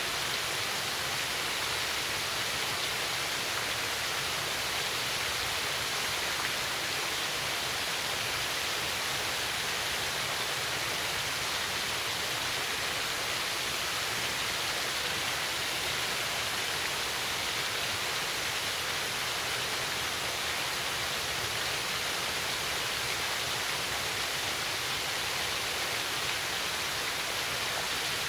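Small waterfall cascading steadily over a rock ledge: an even, unbroken rush of falling water.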